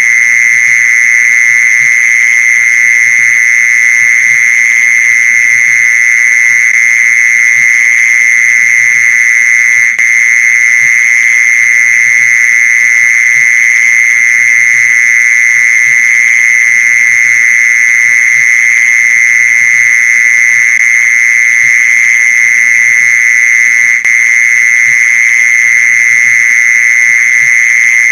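Mole cricket call: a loud, continuous high-pitched song held at one steady pitch, with two brief dips in level.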